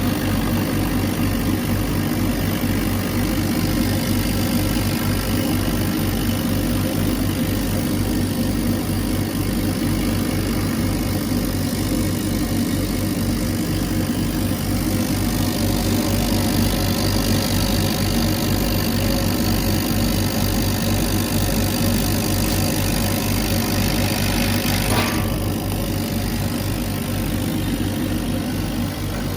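CNC laser cutter running while cutting pine: a steady machine hum with a fast, even low throb and a hiss above it. About 25 seconds in there is a click and the hiss drops away.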